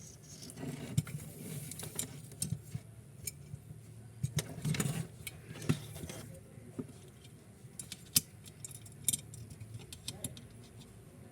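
Scattered small clicks and light metallic clinks of hand tools and phone parts being handled during a smartphone repair, over a low steady hum; the clicks cluster most densely about halfway through.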